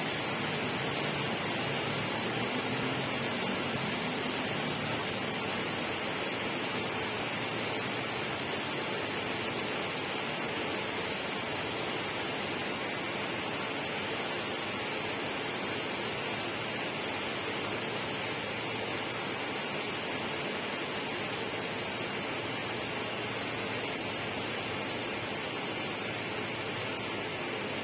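A steady, unbroken rushing noise that stays even throughout, with no separate events.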